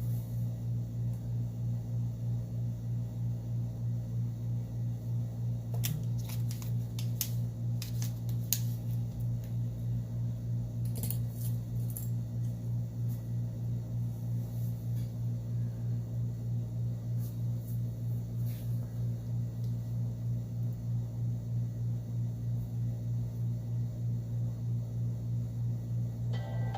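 Steady low hum with a slight regular pulse throughout. Scattered small sharp clicks and taps come between about six and nineteen seconds in, typical of handling small phone parts and tools on a workbench.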